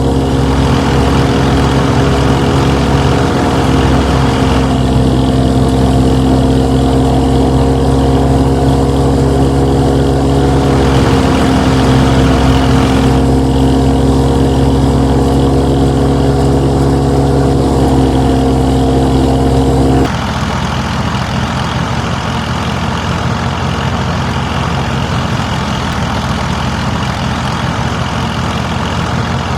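A motor running steadily with an even hum. The sound changes abruptly about two-thirds of the way through and becomes slightly quieter.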